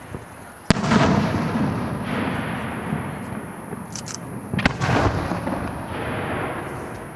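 Aerial firework shells bursting: a sharp bang just under a second in, trailing into a long rumbling echo, then a few small pops and a second loud burst about five seconds in that fades away.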